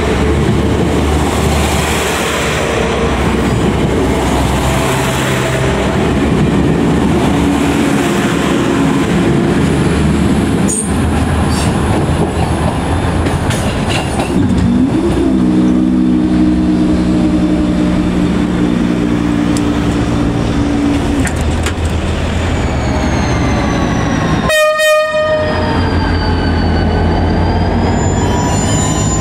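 NIR 4000 Class diesel multiple unit rolling past over a level crossing. Then a train horn sounds one chord of several notes for about six seconds as a train approaches, followed by wheel squeal. Near the end, NIR 111 Class diesel locomotive 8113 rumbles through the station hauling ballast wagons, with flange squeal from the wheels.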